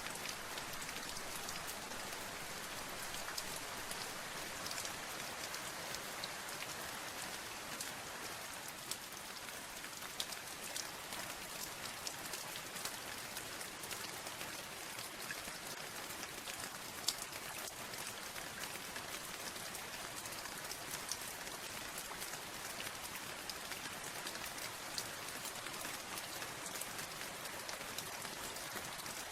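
Steady rain falling, with many individual drops ticking on a hard surface.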